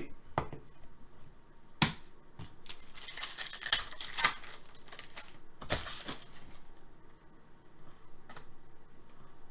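Trading card packs and cards being handled: a sharp click about two seconds in, then a couple of seconds of crinkly rustling, another short rustle about six seconds in, and a few light clicks after.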